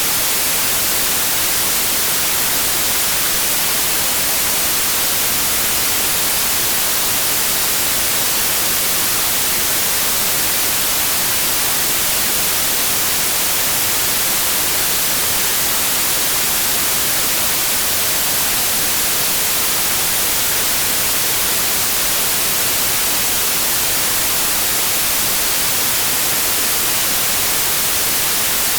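Steady white noise: an even, loud hiss with no changes, no tones and no beat.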